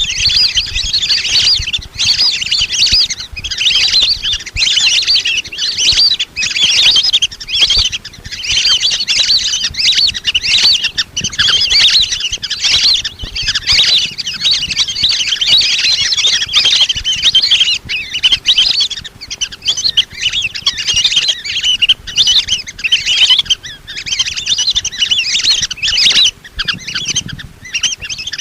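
A flock of lesser whistling ducks calling: many high, chattering whistles overlapping without a break. It is a playback lure call for drawing the ducks in.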